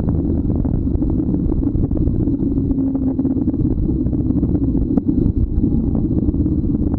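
Motorcycle on the move: a steady low engine rumble mixed with wind noise on the microphone, with a brief click about five seconds in.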